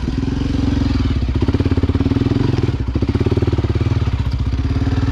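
Single-cylinder four-stroke engine of a Honda XR250 Tornado bored out to 293 cc, running at low revs with a steady, even firing beat.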